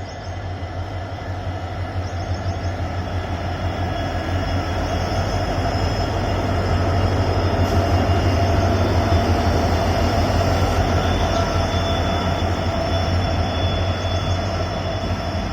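Two EMD diesel-electric freight locomotives, a WDG4 and a WDG4D, each with a two-stroke V16 engine, running in multiple and giving a deep, steady hum as they come in at low speed. The hum grows louder until about halfway through, then eases slightly.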